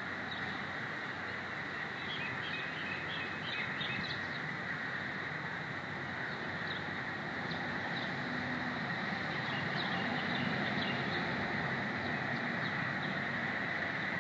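Small birds chirping briefly, a cluster of chirps about two to four seconds in and another around ten seconds in, over a steady background drone with a constant high whine.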